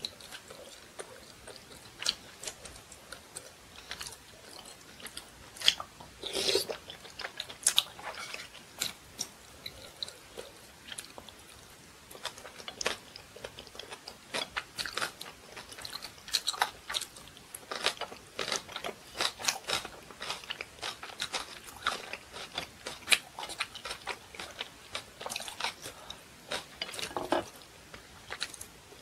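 A person chewing crunchy food, with many sharp, crisp crunches coming irregularly.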